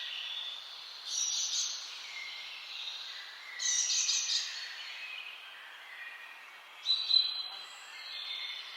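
Several songbirds singing and chirping over a steady background hiss, with louder bursts of song about one, three and a half and seven seconds in.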